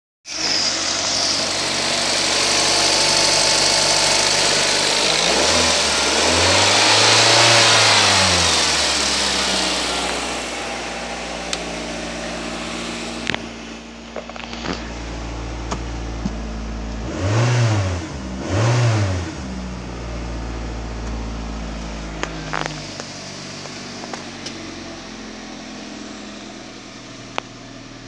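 The 2004 Suzuki Liana's 1.8-litre four-cylinder petrol engine running. It is revved slowly up and back down a few seconds in, blipped twice quickly a little past halfway, and otherwise idles steadily, with a few light clicks. The engine is in good order and passes its test.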